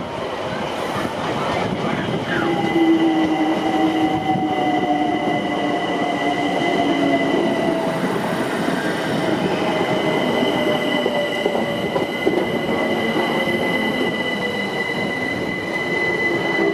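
A train running on the rails, with a steady high-pitched wheel squeal over the rumble and a lower whine that slowly falls in pitch.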